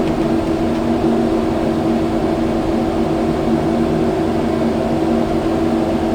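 Kubota skid steer's diesel engine running steadily while the machine packs fill into a pothole.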